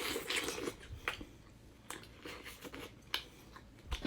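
Close-miked chewing and biting of food, with scattered sharp wet mouth clicks.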